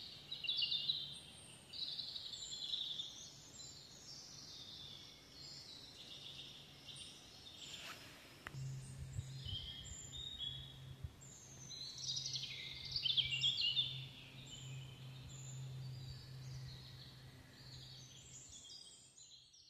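Birdsong: repeated high chirping and warbling phrases throughout. A click comes about eight seconds in, after which a low steady hum runs underneath.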